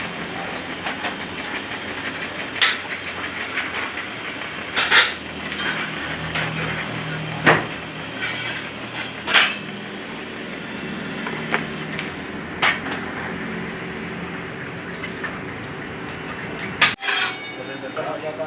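Steady hiss and hum of arc welding on a stainless-steel motorcycle exhaust header, broken by occasional sharp metallic clinks and taps.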